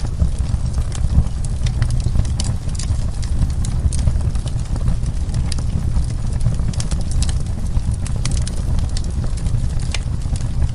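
Wood fire burning in a fireplace: many sharp, irregular crackles and pops over a steady low rumble.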